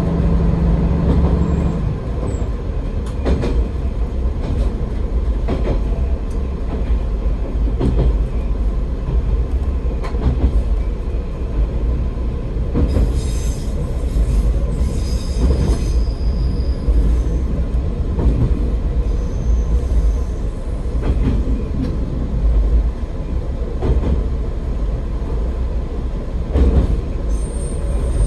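AN-8800 diesel railcar running along the track, heard from inside at the front: a steady low drone of engine and wheels, with rail-joint clicks every second or two. Brief high-pitched wheel squeals come about halfway through.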